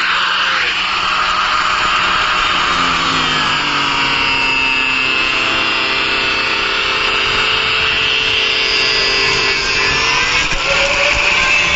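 Electric power tool running steadily while working wood, its motor whine drifting slowly up and down in pitch as the load changes.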